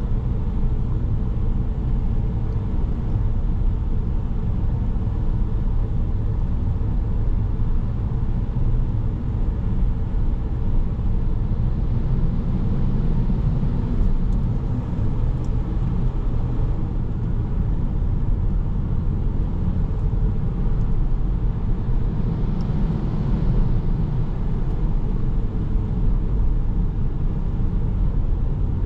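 Steady drone of a 2017 Volkswagen Jetta SE on the move, its 1.4-litre turbo four-cylinder engine and tyres on the road making a low, even rumble, heard from inside the cabin.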